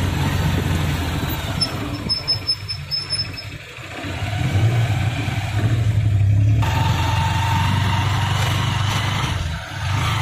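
Honda TMX motorcycle's single-cylinder four-stroke engine running as it pulls a tricycle sidecar. Its note dips a few seconds in and then picks up again as the rider accelerates.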